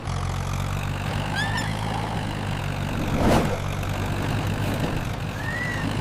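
Cartoon tractor engine running with a steady low hum, with a single knock a little over three seconds in and a few short high chirps.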